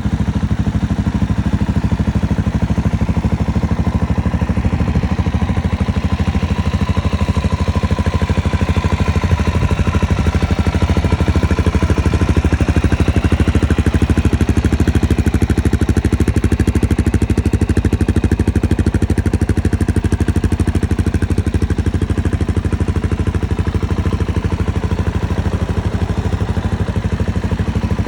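2023 Suzuki DR-Z400SM's single-cylinder four-stroke engine idling steadily, a fast even pulse of exhaust beats.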